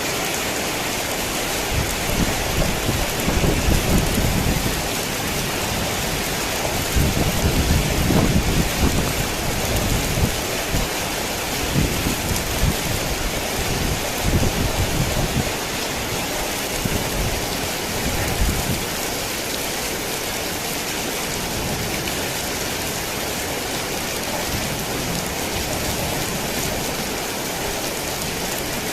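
Heavy rain falling steadily, with several low rolls of thunder rumbling through the first two thirds, then only the rain.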